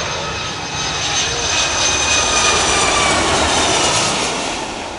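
Boeing 757 twin-jet passing low overhead on its landing approach. The engine roar builds to its loudest about halfway through, then fades, with whining tones that slide steadily down in pitch as it goes by.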